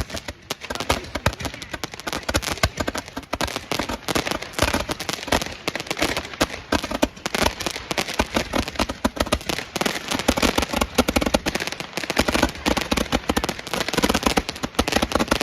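Fireworks and firecrackers going off in a dense, continuous run of rapid bangs and crackles.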